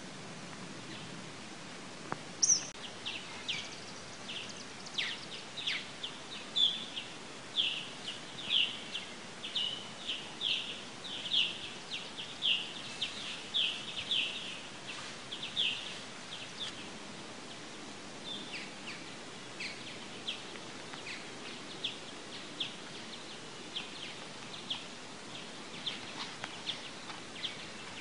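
A small bird calling over a steady background hiss. It gives a long run of short, high chirps, about two a second, loudest in the first half and then fainter and more spaced out.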